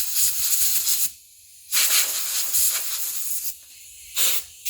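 Air being blown hard through a chainsaw's fuel tank vent tube in three hissing blasts, a short one near the end, to clear out the sawdust and debris clogging it.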